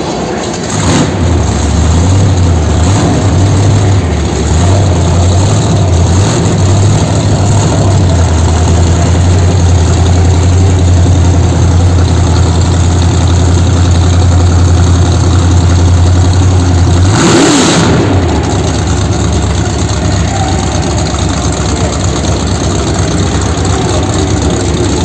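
Carbureted V8 crate engine on a run stand, running through open long-tube headers with no mufflers. It picks up about a second in, gives one quick rev about two-thirds of the way through, then settles back to a slightly lower idle.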